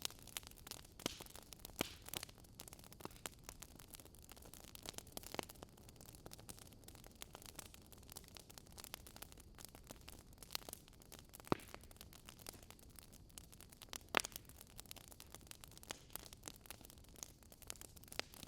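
Wood fire burning in a fireplace: irregular crackles and sharp pops over a soft steady hiss, with two louder pops about eleven and fourteen seconds in.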